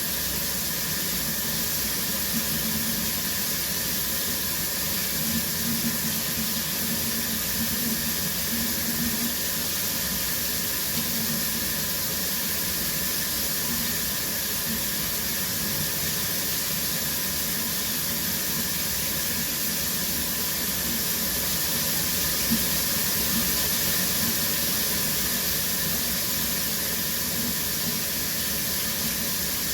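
Shower running steadily: an even hiss of falling water spray, strongest in the highs, with no change throughout.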